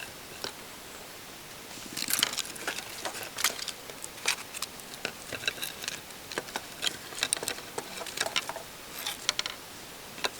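Wood fire crackling in a YOKA cooking fire pit: irregular sharp pops and snaps, starting about two seconds in and running on over a steady hiss.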